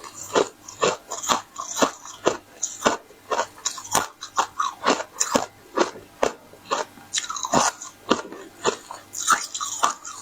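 A person chewing crisp bitter-buckwheat flatbread close to the microphone: sharp crunches at about two a second.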